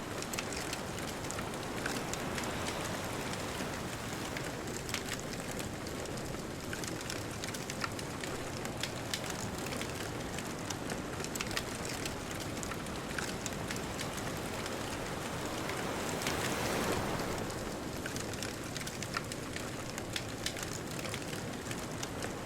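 Bonfire crackling with many sharp pops over the steady hiss of distant ocean surf. About three-quarters of the way in, a wave washes louder, then falls back.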